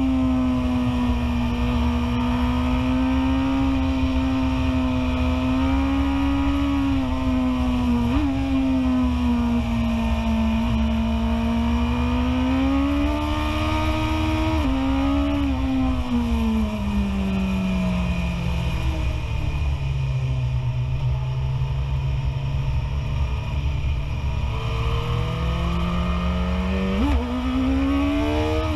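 BMW S1000RR inline-four superbike engine running at high revs from the rider's seat, its note rising and falling with the throttle, with a few sudden jumps in pitch at gear changes as it drops from third to second. A steady low rush of wind runs under it.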